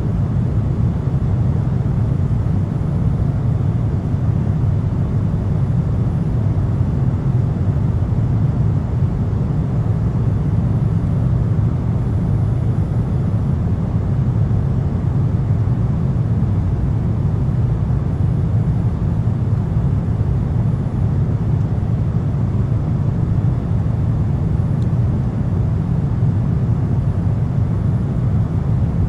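Cabin noise of a Boeing 777-200 airliner: a steady, unbroken low rumble of engines and airflow.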